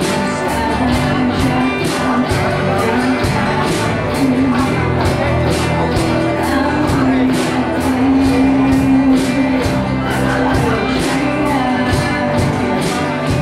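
A five-piece rock band playing live, with drums, bass, two guitars, keyboard and a sung lead vocal. Cymbal hits land evenly, about four a second, and the vocal holds long notes through the middle.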